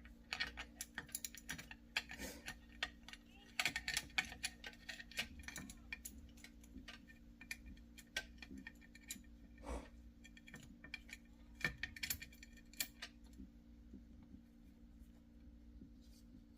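Light metallic clicks and rattles of hand tools and engine parts being handled during timing-chain work on an ATV engine, coming in quick clusters and thinning out near the end, over a steady low hum.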